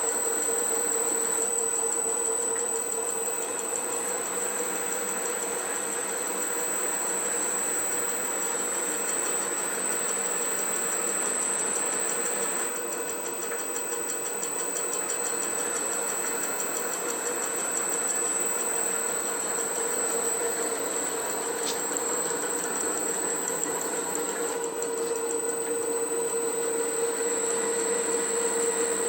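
A machine running steadily with a continuous high whine over a dense mechanical noise, without stopping or changing speed.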